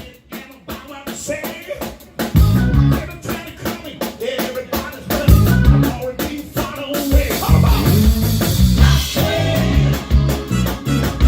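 Blues band playing live: a sparse opening, with the full band coming in about two seconds in and the sound filling out further at about seven seconds.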